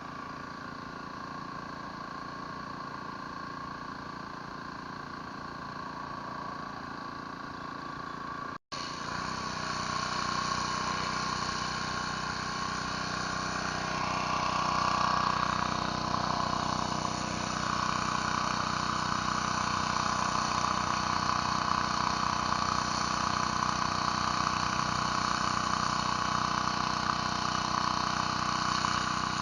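Pressure washer engine running steadily under the noise of the spray, with a split-second cut about eight and a half seconds in, after which it is louder.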